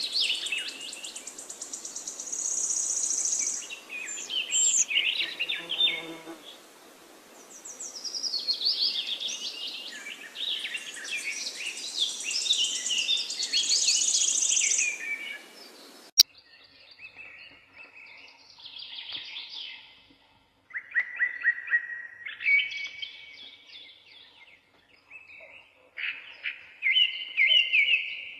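Several forest songbirds singing in overlapping trills and chirps over a steady background hiss. About halfway through, the recording cuts abruptly to another stretch of birdsong with a quieter background, where single birds sing short phrases with pauses between them.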